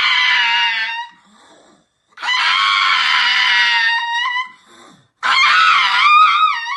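An animal giving three long, high-pitched screaming cries with short pauses between them; the last cry wavers up and down.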